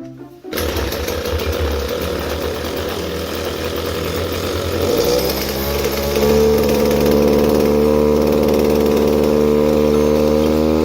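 Small two-stroke brush cutter engine (Kioritz SRE2350G) running: it comes in suddenly about half a second in, runs unevenly for several seconds, then settles into a steady, even speed about six seconds in.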